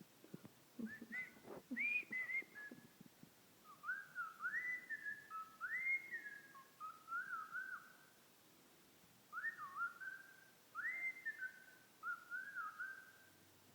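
A cockatiel whistling a tune in three phrases of rising and falling notes, with short pauses between them. A few soft knocks come near the start.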